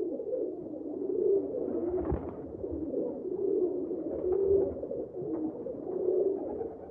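Birds cooing: repeated low calls that overlap one another, as from several birds.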